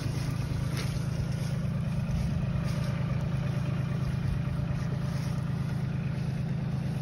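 Diesel tractor engine running steadily with an even, low-pitched beat.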